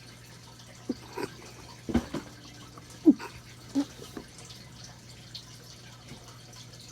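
A handful of light taps and knocks, bunched in the first four seconds, over a steady low hum.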